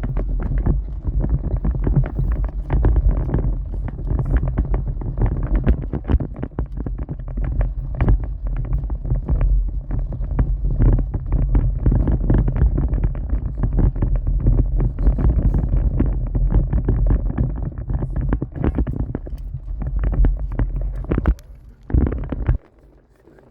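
Storm wind buffeting the microphone: a loud, uneven low rumble with sharp gusting pops, dipping about 21 seconds in and cutting off suddenly about a second later.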